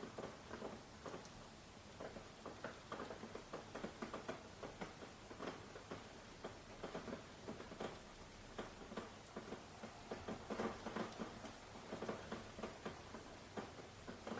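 Light rain, single drops pattering irregularly at a low level.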